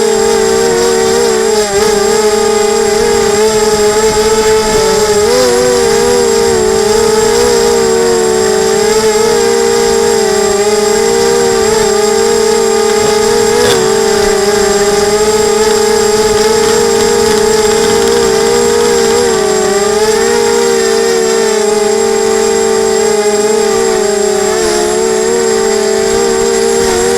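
Emax 250 quadcopter's motors and propellers whining steadily, the pitch wobbling slightly up and down as the throttle is adjusted.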